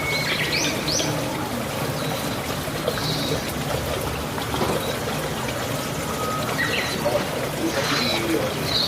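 Pigeons: quick high chirps about a second in and again near the end, and a domestic pigeon starting to coo near the end, over a steady hiss.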